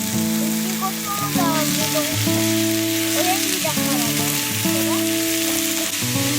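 Food sizzling as it fries in a hot pan, a steady crackling hiss, under background music with held notes.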